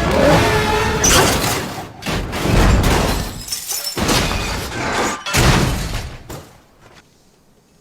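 A car crashing and rolling over: four or five heavy impacts with glass shattering. The sound dies away about a second before the end.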